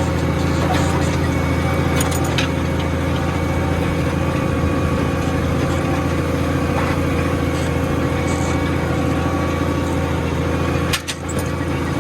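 New Holland T7220 tractor's diesel engine running steadily under load, pulling a plough up a hill. A short click and a brief drop in the sound come near the end.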